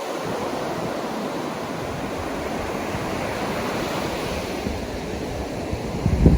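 Ocean surf washing on a beach, mixed with wind buffeting the microphone; a louder gust of rumble comes near the end before the sound cuts off suddenly.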